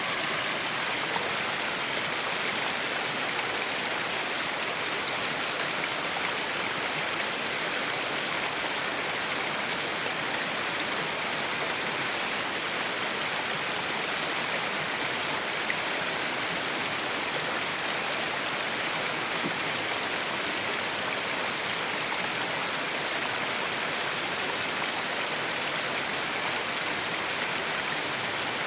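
Urlătoarea waterfall: falling water rushing in a steady, unbroken hiss that is bright rather than deep, with little low rumble.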